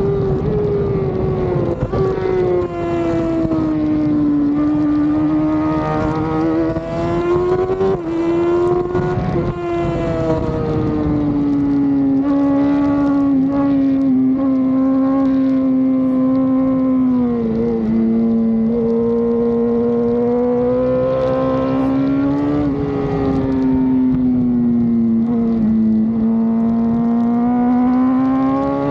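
Racing motorcycle engine held at high revs on a road course, its pitch climbing and falling again and again with throttle and gear changes.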